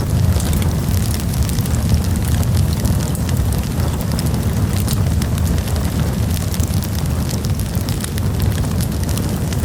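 Wood campfire burning, with a steady low rumble under frequent sharp crackles and pops.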